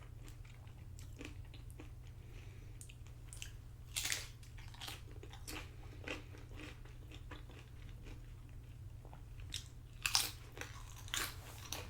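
Close-up crunching and chewing of tortilla chips loaded with nacho toppings, in uneven bites, with louder crunches about four seconds in and again near the end.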